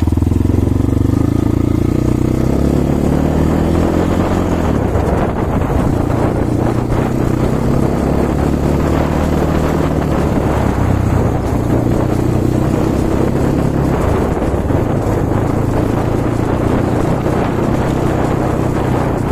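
Kovi Advance 300 enduro motorcycle engine running on a warm-up ride, its pitch shifting now and then with the throttle.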